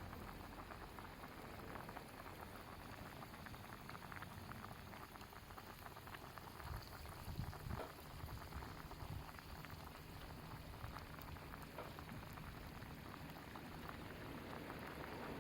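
Faint, steady bubbling and fine crackling of food cooking over a campfire. A few low bumps come about seven to eight seconds in.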